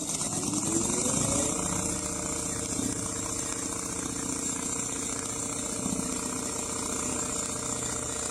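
Richpeace automatic CNC sewing machine running a seam: its hum rises in pitch as the machine speeds up over the first second or so, then holds a steady high-speed run.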